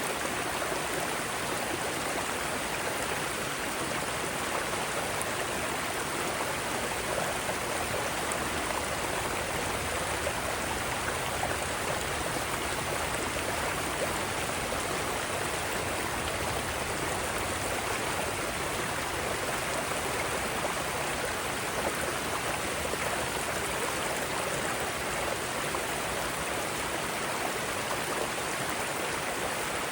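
Mountain stream running over rocks: a steady, even rush of water with no breaks.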